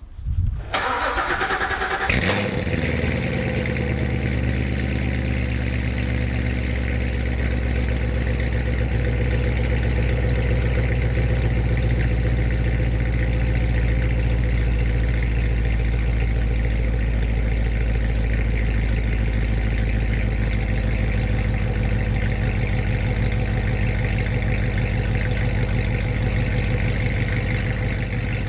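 2014 C7 Corvette's LT1 V8 cranking and firing up, with a brief flare of revs in the first two seconds, then settling into a steady idle. It breathes through Kooks longtube headers and an off-road X-pipe with no catalytic converters, so the exhaust is loud and open.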